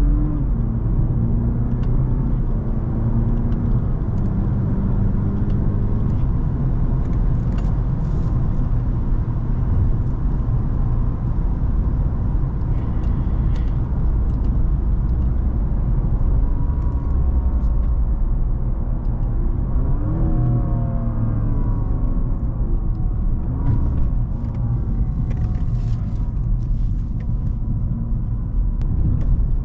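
Cadillac CTS 3.6-litre twin-turbo V6 running under way, with steady road rumble. The engine note falls in the first seconds and rises again about twenty seconds in.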